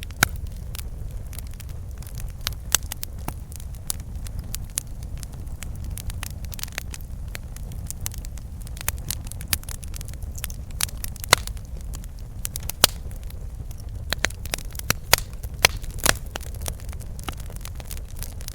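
Campfire burning: wood crackling and popping at irregular intervals, with a few louder pops, over a steady low rumble.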